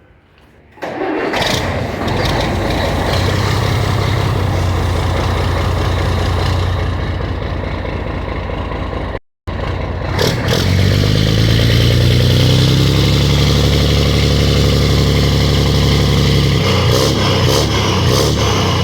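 Scania 113H truck's inline-six turbo diesel starting about a second in and running loud through a newly fitted straight-through open exhaust pipe. After a cut it is revved, rising in pitch and holding at a higher speed, then falls back near the end.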